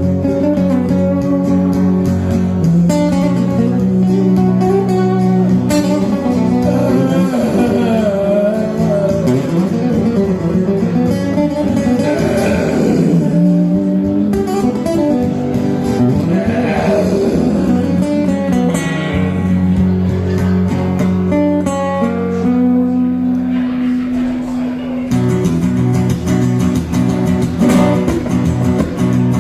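Acoustic guitar music played live, with steady chords underneath. Through the middle stretch a melody line wavers and bends up and down in pitch.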